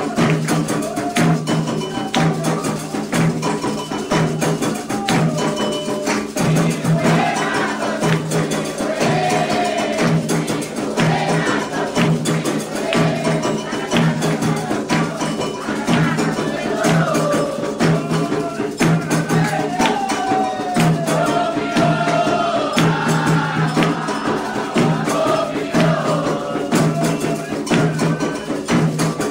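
Candomblé ceremonial drumming and singing: atabaque hand drums keep a steady beat under bright struck percussion, with voices chanting a wavering sung melody.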